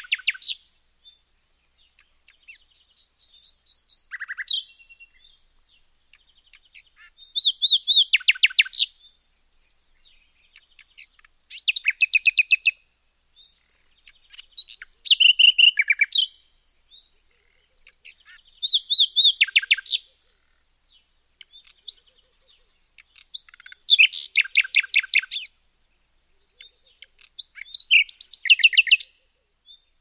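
A songbird repeating a short trilled song phrase about every four seconds, eight times. Each phrase is a quick run of rapid notes, about one to two seconds long, that grows louder towards its end.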